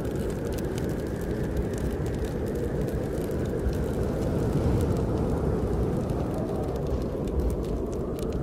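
Steady low howl of snowstorm wind, with scattered faint crackles of a wood fire burning in a fireplace.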